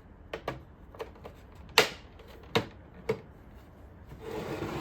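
Plastic clicks and snaps as a pry tool works the snap-in tabs of an older iRobot Roomba's plastic shell: about seven sharp clicks, the loudest a little under two seconds in, then a rough scraping rub near the end.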